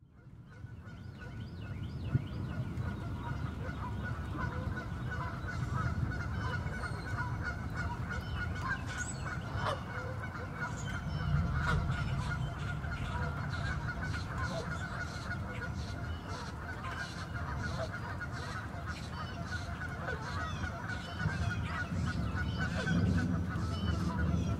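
Steady rain pattering on a lake, fading in over the first second, under a low rumble of distant thunder that swells about halfway through and again near the end.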